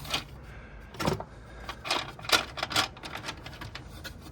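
Small hard objects being handled and set down: a run of about seven sharp, irregularly spaced clicks and clatters.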